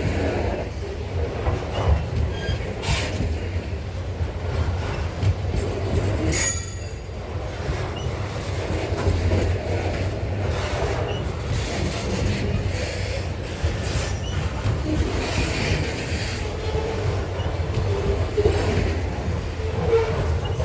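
Loaded freight train wagons rolling past, with a steady low rumble of wheels on rail and scattered knocks. A brief high wheel squeal comes about six seconds in.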